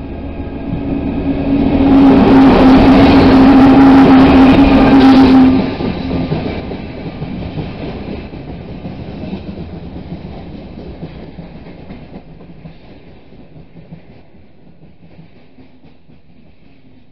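A 2TE25KM twin-section diesel freight locomotive passing close by at speed, very loud with a strong steady tone for a few seconds and then cutting off sharply about five and a half seconds in. Its freight hopper wagons follow, their wheels clattering over the rail joints in a rumble that slowly fades.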